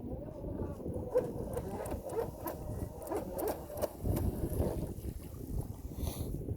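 Wind buffeting the microphone, with the faint wavering whine of an RC boat's brushless motor out on the water.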